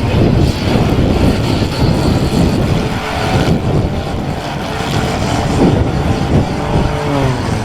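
Compact demolition derby cars' engines running loudly and revving hard, with pitch sweeps in the second half as the drivers throttle up and back off.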